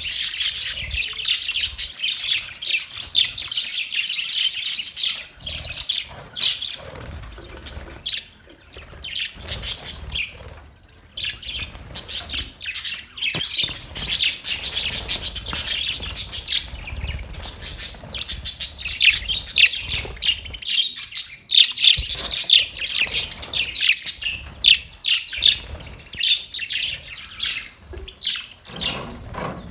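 Budgerigars chirping and warbling, a dense stream of rapid high chirps with a couple of brief lulls.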